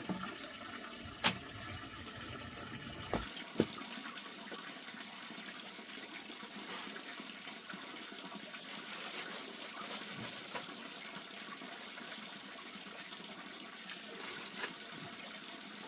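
Water running or pouring steadily, with a few sharp knocks early on.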